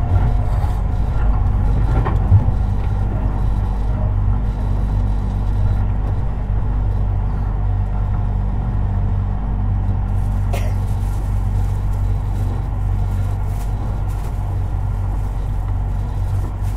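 Running noise inside a Tobu 50090 series electric train car, recorded near the underfloor: a steady low rumble of wheels and running gear. There is a sharp click about two seconds in and another about ten seconds in.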